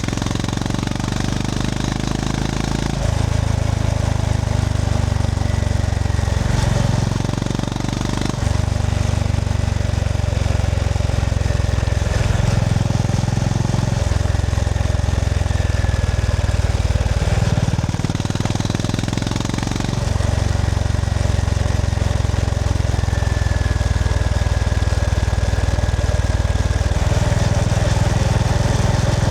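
Honda GB350S's air-cooled single-cylinder engine running under way, its note rising and falling in steps every few seconds as the throttle is opened and closed.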